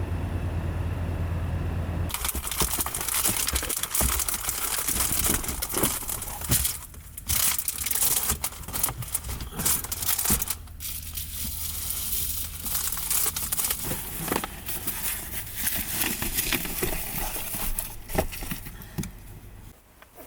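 A low steady hum stops about two seconds in, and then packaging is crinkled and rustled by hand in loud, irregular crackles and crumples.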